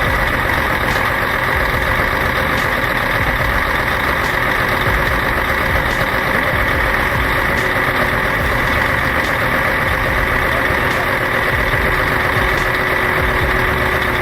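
Vehicle engine running steadily: a constant low drone with a faint steady whine over it.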